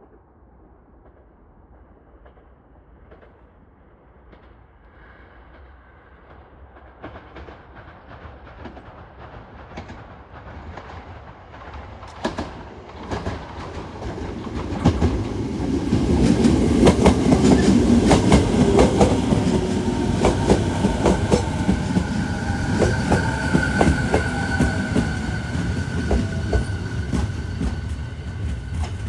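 JR 209-series electric train approaching, growing louder over about fifteen seconds. It then runs close by, its wheels clacking rapidly over rail joints.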